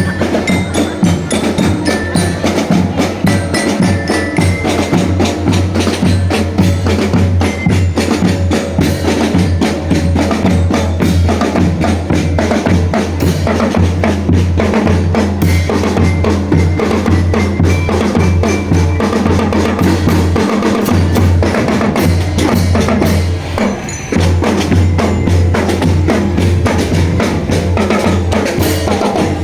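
Marching drum band playing: snare and bass drums beating a steady, dense rhythm, with short high melody notes above in the first few seconds. A steady low hum runs underneath.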